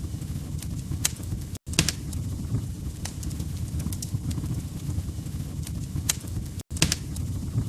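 Wood fire crackling in a fireplace: a steady low rumble of flame with scattered sharp pops and snaps. The sound drops out for an instant twice, about a second and a half in and again near the end.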